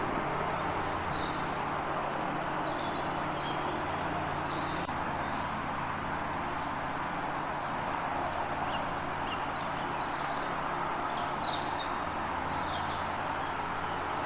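Small birds chirping in short, high twittering phrases, in two spells: one from about a second in to about five seconds, another from about nine to thirteen seconds. Under them runs a steady background rumble with a low hum.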